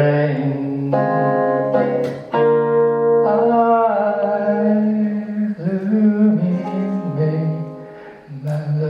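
Singing with guitar accompaniment: a voice holding long notes, with no clear words, over guitar chords.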